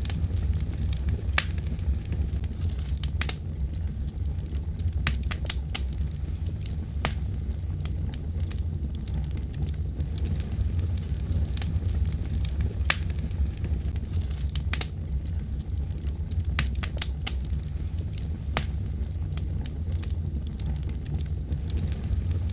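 Fire crackling, with sharp, irregular pops over a steady low rumble of flames.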